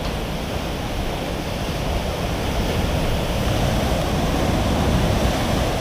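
Storm-driven sea swells breaking on the shore: a steady rush of heavy surf with a deep rumble, swelling a little louder midway.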